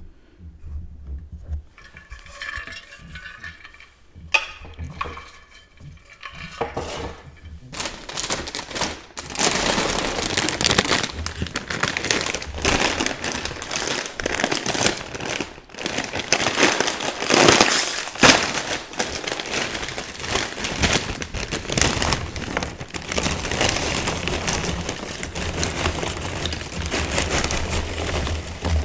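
Chips being chewed with close-miked crunching, dense and continuous from about eight seconds in. Before that there are lighter crinkling and clinking handling sounds.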